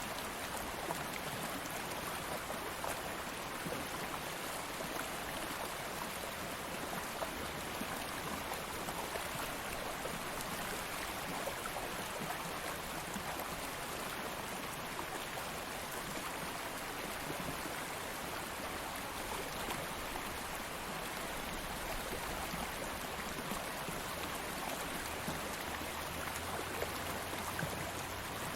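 Shallow stream flowing steadily, an even rushing and burbling of water over stones.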